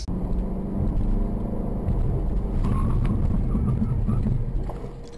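Car engine and road noise heard from inside the cabin as the car drives in traffic, a steady low hum that drops in level near the end.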